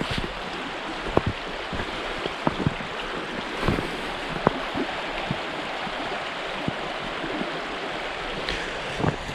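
Steady rush of running water from a natural spring, with scattered sharp ticks of drips or splashes throughout.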